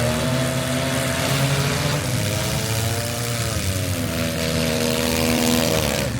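Demolition derby car engines running hard, their pitch climbing slowly, dipping about midway, then holding before dropping away near the end.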